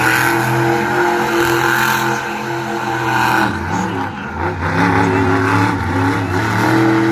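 Monster truck engine revving hard, easing off about halfway through and then building again.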